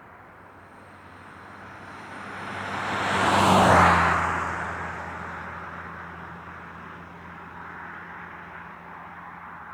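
A car passing by on a highway: its tyre and engine noise swells to a peak about three and a half seconds in, drops slightly in pitch as it goes past, then fades into a steady wash of traffic.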